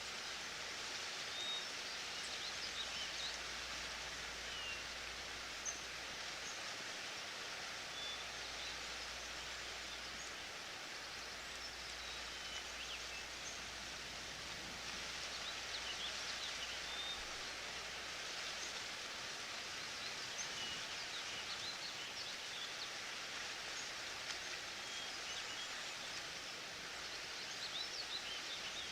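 Forest ambience: a steady rushing hiss with many short, high bird chirps scattered through it.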